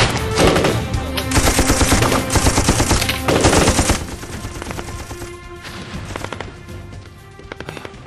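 Rapid gunfire from a group of soldiers' rifles, many shots close together. About four seconds in it drops to fainter, more distant shooting that keeps crackling on.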